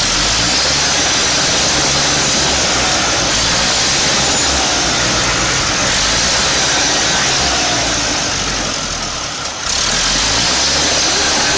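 A heavy machine's engine running steadily under a loud, even hiss. The sound dips briefly about nine seconds in and then picks up again at the same level.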